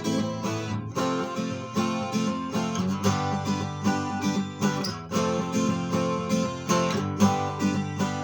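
Soviet Lunacharsky-factory 12-string acoustic guitar being played, its chords struck in a steady rhythm of several strokes a second with the strings ringing on between them.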